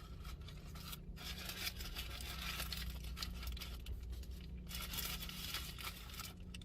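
Paper burger wrapper rustling and crinkling in two long stretches as it is handled, over a steady low hum.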